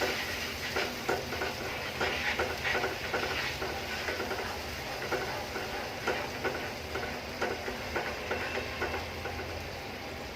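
A spoon stirring and scraping in a cooking pot, making irregular clicks over a steady background hiss.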